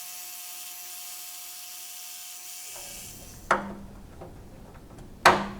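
A power tool's motor running steadily with a whine, then shutting off about halfway through. After that come two sharp metallic clanks with a short ring, the second one the loudest.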